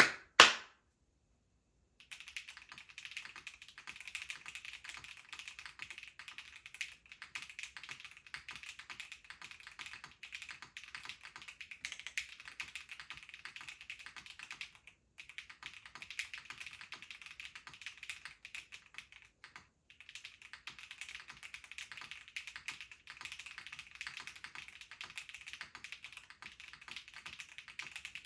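Continuous typing on a mechanical keyboard fitted with HMX Firecracker tactile switches on a polypropylene plate, dense key clacks that are full and bright sounding. A single sharp knock opens it, and the typing starts about two seconds later, with two brief pauses past the middle.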